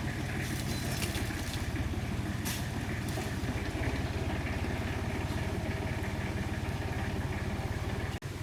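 An engine running steadily at an even speed, cutting out abruptly for an instant near the end.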